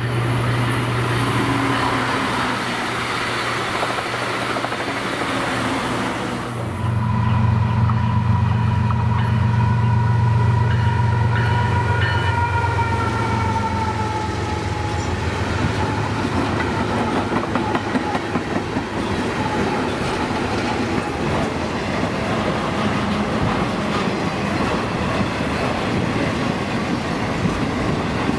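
A steady low rumble, then about seven seconds in a Florida East Coast Railway freight train passing close by: its diesel locomotives' engines drone while the horn sounds a chord that slowly falls in pitch. Behind them a long string of intermodal cars rolls past with a continuous clicking clatter of wheels on rail.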